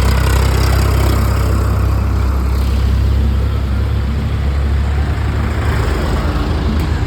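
Tractor's diesel engine running steadily with a deep low drone, easing slightly a few seconds in.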